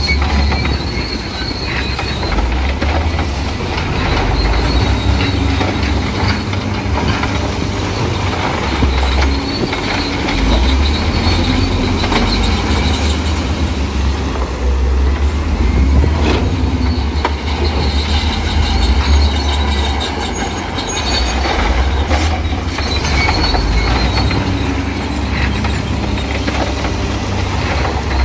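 Crawler bulldozer working: a heavy diesel engine rumble that swells and eases under load, with the steel tracks squealing on and off.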